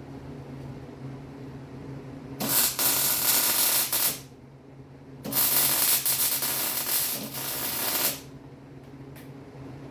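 Electric welding arc, two welds in a row: a hissing crackle of about a second and a half, a short pause, then a longer one of nearly three seconds, over a steady low hum.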